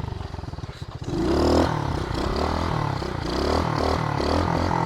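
SSR110 pit bike's small four-stroke single-cylinder engine, putting along low for about a second, then revving up and rising and falling in pitch again and again as the throttle is worked.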